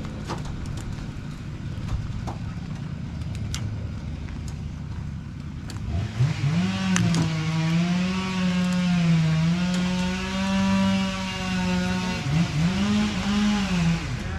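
An engine revs up about six seconds in and is held at high revs, dipping briefly under load, then blips up and down twice near the end. Before that there is a steady low rumble with a few clicks.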